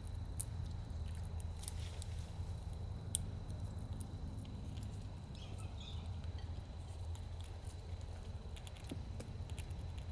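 Squirrels and birds feeding: scattered light clicks and taps of nuts and seeds being handled and chewed over a steady low rumble, with a faint bird chirp about halfway through.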